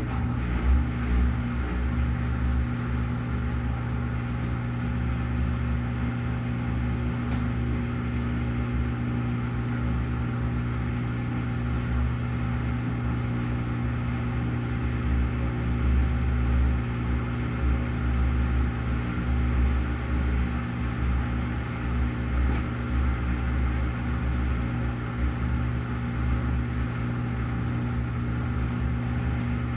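Washing machine running: a steady electric motor hum with a low, unevenly surging rumble underneath.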